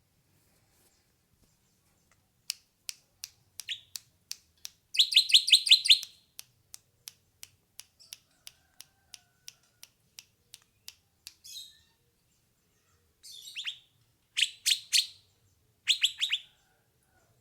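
Hair-crested drongo calling: a string of sharp chips, about two or three a second, broken by short bursts of quick falling notes. The loudest burst comes about five seconds in, and a few more follow near the end after a short pause.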